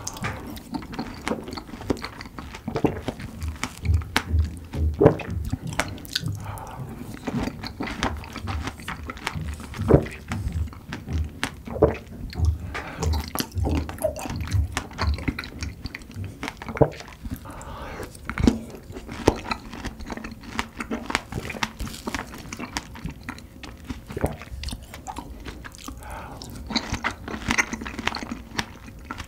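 Close-miked chewing of a large strawberry topped with whipped cream and Nutella: wet, squishy mouth sounds with many short smacking clicks, chewing in a steady rhythm through the first half.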